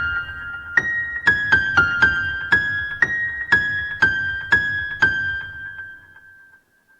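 Instrumental music: a keyboard plays a melody of single struck notes, about two a second, each ringing on briefly. It fades out to near silence about six and a half seconds in.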